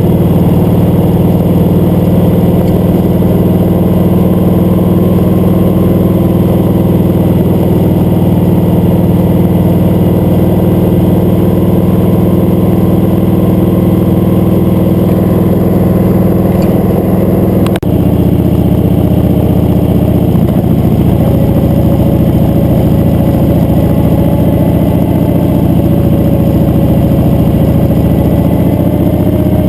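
Motorcycle engine running steadily while riding. About 18 seconds in the sound dips briefly, then the engine note changes and climbs slowly, as in a gear change followed by gentle acceleration.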